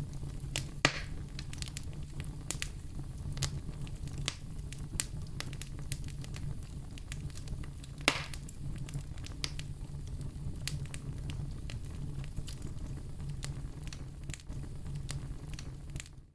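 Wood fire crackling in a fireplace: frequent small pops and snaps over a steady low rumble of flames, with two louder pops, about a second in and about eight seconds in. The sound cuts out for a moment right at the end.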